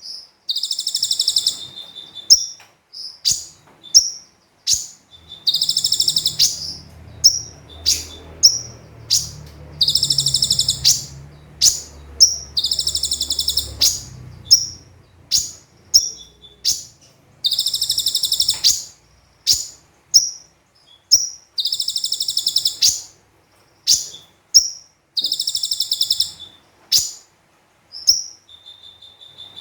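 Konin (kolibri ninja sunbird) singing: sharp high chirps, broken about every four seconds by a fast buzzing trill about a second long. It is the rapid-fire 'tembakan' song that bird keepers play to train other birds.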